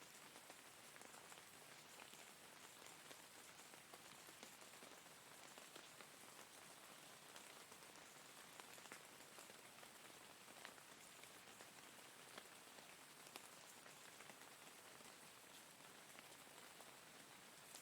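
Steady, faint rain falling, an even hiss with scattered individual drops tapping.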